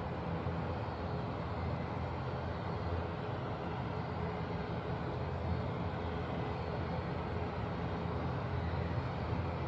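Turboprop engines of an ATR72-600 (Pratt & Whitney PW127) running steadily at taxi power, a constant low drone with a faint steady whine above it.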